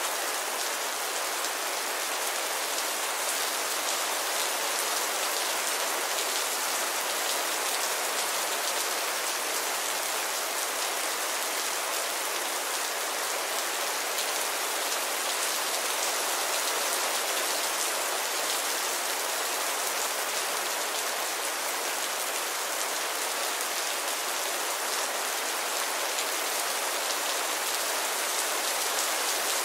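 Steady rainfall: a dense, even hiss of rain with no thunder or sudden sounds.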